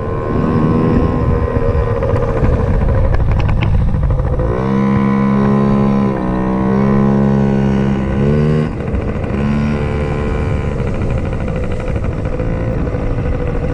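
Dirt bike engine running, pitched up to a higher steady rev from about four and a half seconds in, with a short dip midway, then dropping back about eight and a half seconds in.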